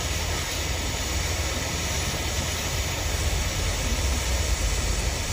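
Steady rushing hiss of blowing air with a low rumble underneath, cutting in and out abruptly.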